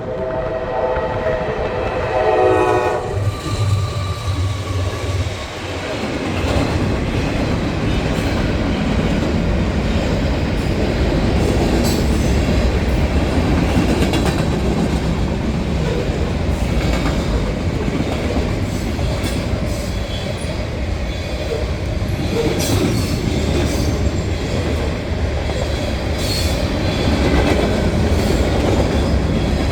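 Freight locomotive horn sounding and cutting off about three seconds in. Then the diesel locomotives pass with a low engine drone, followed by freight cars rolling by with steady wheel clatter and a few brief wheel squeals.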